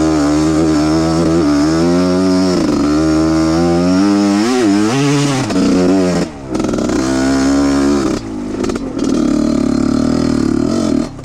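Trail motorcycle engine running under load, its pitch repeatedly rising and falling as the throttle is worked. It dips briefly about six seconds in and drops away abruptly near the end.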